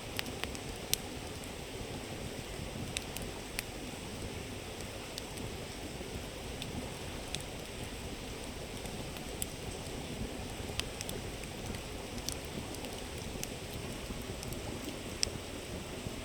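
Steady rushing of a river running over stones, with a wood campfire crackling: irregular sharp pops and snaps on top, the loudest about a second in and near the end.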